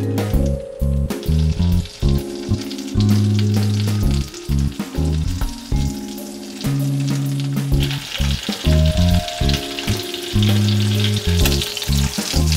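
Pollock roe sizzling as it pan-fries in melted butter, the sizzle getting louder about eight seconds in, with the odd tap of tongs or chopsticks turning it. Low sustained background music notes run underneath.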